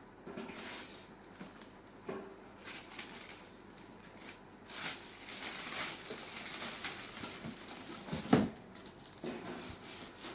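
Unboxing a barbecue grill: irregular rustling and light knocks as packaging and parts are handled, with one sharp, louder knock about eight seconds in.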